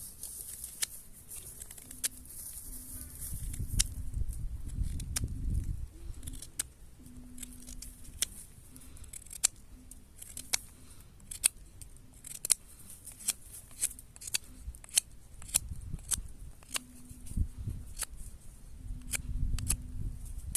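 Clearing a forest campsite by hand: sharp, irregular snips and snaps of small branches and brush being cut, roughly two a second, with low rustling and rumbling from handling the cut material in two stretches.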